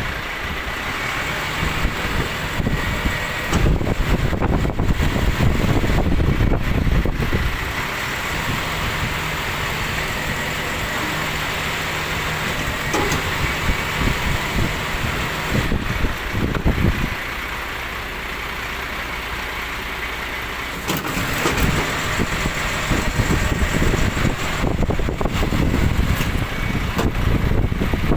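Refuse collection truck running, its diesel engine and hydraulic tipping arm working as food-scraps bins are emptied into the hopper. The note changes several times and settles into a steadier, slightly quieter idle for a few seconds past the middle.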